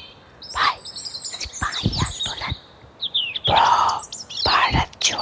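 Small birds chirping and tweeting in many short, quick calls, mixed with a few brief noisy bursts.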